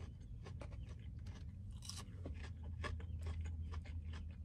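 A person chewing a golden, crispy fried cheese curd up close to the microphone: irregular crisp crunches and mouth sounds, over a steady low hum.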